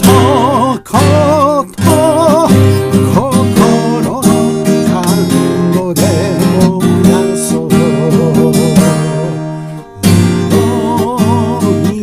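A song on strummed acoustic guitar with a melody line sung with vibrato. The music thins and drops briefly about ten seconds in, then comes back.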